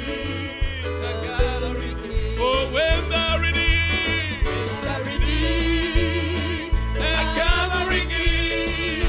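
Gospel praise song: voices singing with vibrato over a band, with a steady bass line and a drum beat.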